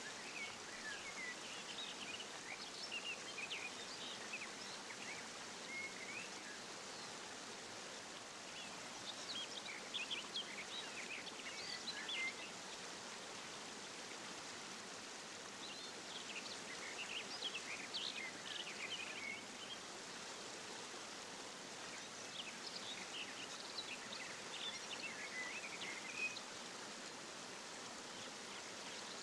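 Small aviary birds chirping in short scattered bursts, in four loose groups, over a steady rush of running water from the aviary's waterfall.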